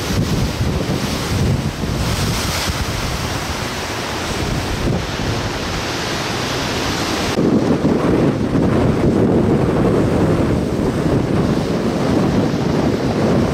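Strong gusty wind buffeting the microphone over the rush of rough, wind-driven waves. About halfway through the sound changes abruptly, turning deeper and louder as the high hiss drops away.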